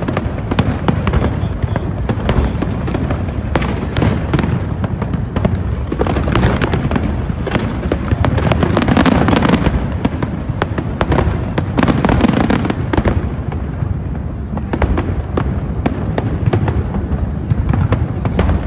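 Aerial fireworks display bursting and crackling in a rapid, unbroken barrage, densest around nine and twelve seconds in.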